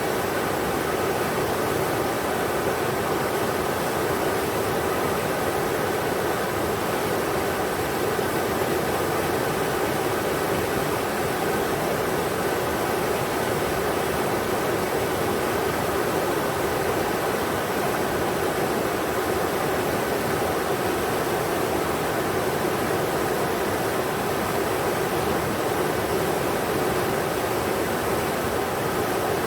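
Englishman River flowing over rocks: a steady, even rush of water with no change in level.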